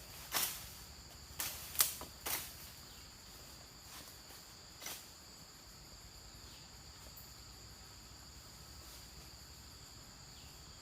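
Insects droning steadily in two high, even tones, with a few short, sharp knocks or clicks in the first five seconds.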